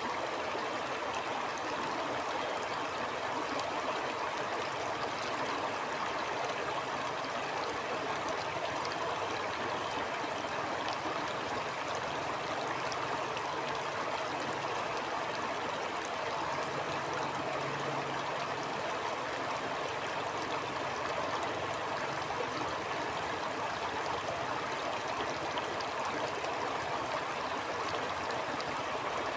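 A stream of running water flowing steadily, an even, unbroken rush with no separate events.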